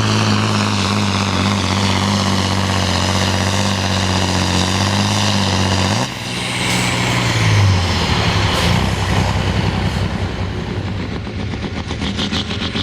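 Pulling truck's diesel engine running hard at steady high revs, cutting back suddenly about six seconds in, rising briefly, then settling into a rougher, pulsing lower run.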